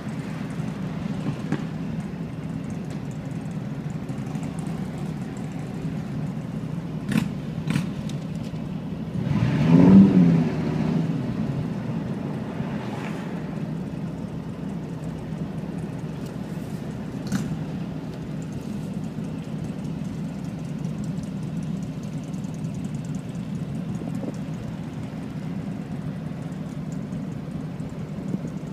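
Road vehicle engine running steadily while driving. About ten seconds in, the engine note swells, rising and then falling in pitch.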